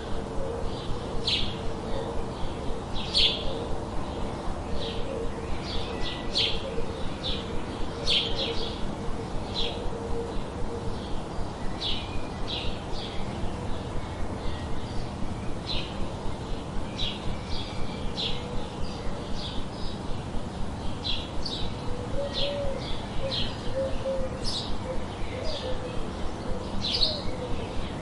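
Small birds chirping: many short, high chirps repeated irregularly, about one or two a second, over a steady low background hum.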